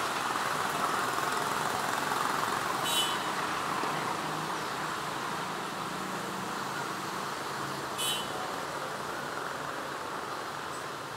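Passenger train running away along the track, its wheels on the rails making a steady rushing noise that slowly fades. Two brief high squeaks ring out, about three seconds and eight seconds in.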